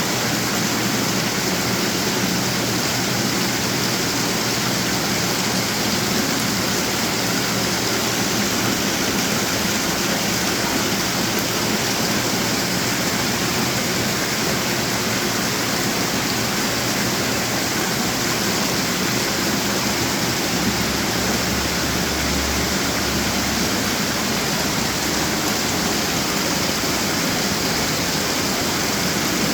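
Display water fountains running, a steady, unbroken rush of falling and splashing water.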